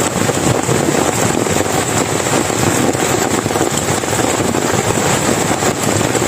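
Heavy rain falling hard, a loud, steady hiss with no letup.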